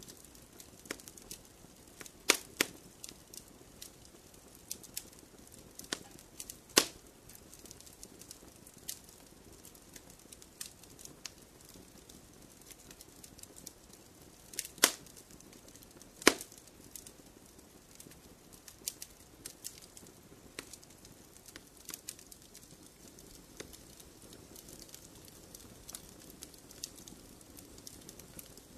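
Wood fire crackling in a fireplace: logs burning with a faint low hiss and frequent scattered small cracks. A few loud sharp pops stand out, about two and a half seconds in, near seven seconds, and a pair around fifteen to sixteen seconds.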